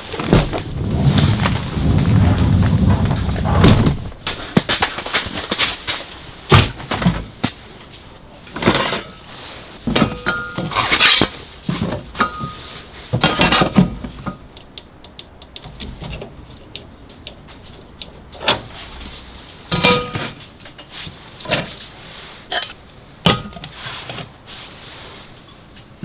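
Repeated sharp knocks and clatters of hard objects being handled, some with a brief ringing tone, after a few seconds of low rumbling at the start.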